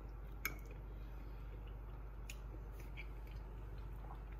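Someone chewing a bite of food: a few faint soft clicks and mouth sounds over a low steady hum.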